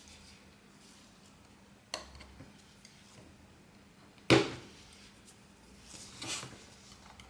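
Small tools and parts being handled on a work surface: a faint click about two seconds in, a sharp knock of a hard object set down just past four seconds, and a brief scrape near the end.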